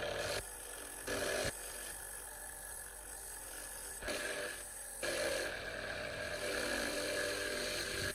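A power tool running with a steady high whine under a harsh scraping noise. The noise shifts in level several times.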